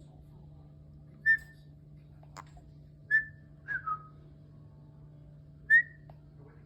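Pet parrot giving short whistles: three brief single notes and one two-note whistle that drops in pitch, with a sharp click between the first two.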